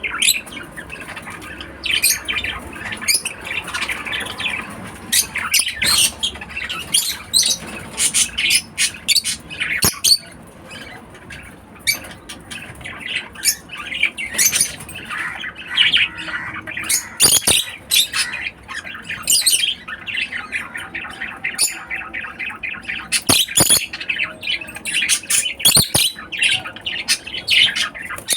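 Lovebirds calling with many short, high-pitched squawks and chirps in quick, irregular succession, with a few sharp clicks among them.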